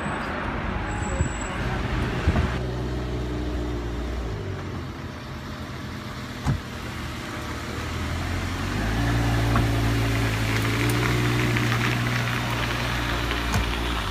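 Supercar engine idling at a steady pitch, growing louder about two-thirds of the way through, with a single sharp click near the middle.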